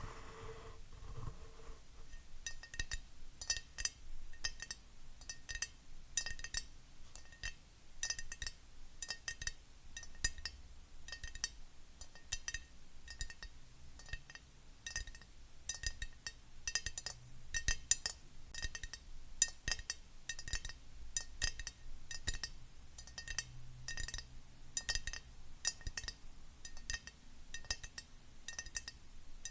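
Fingernails tapping quickly on a glass object, each tap a sharp click with a short, high glassy ring.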